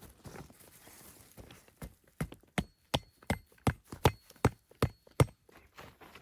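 A quick run of about ten sharp knocks, nearly three a second, with a faint ringing tone over them, like repeated striking or chopping.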